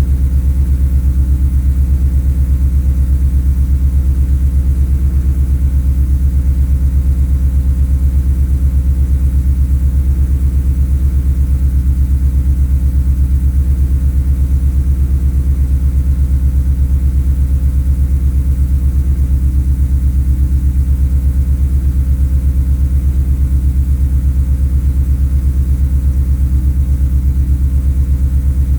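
Ford Coyote 5.0 L V8, breathing through long-tube headers, a Magnaflow muffler and two 3-inch Vibrant resonators, idling steadily after a cold start. The exhaust note is low and even, with no revving.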